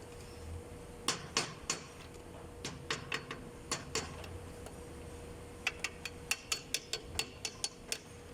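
Sharp metallic taps of a hammer fitting the timing-chain sprocket onto the crankshaft nose of an engine under assembly: scattered strikes at first, then a quick run of about four taps a second near the end.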